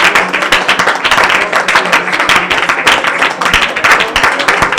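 A congregation praying aloud all at once, many voices overlapping into a loud steady din, with hand clapping through it.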